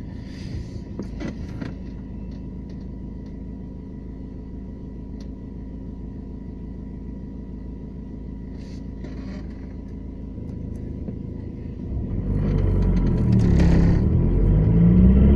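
Renault Laguna II 1.9 dCi four-cylinder turbodiesel running with a steady low rumble. About twelve seconds in, it gets much louder and its note rises and falls as the engine is put under load.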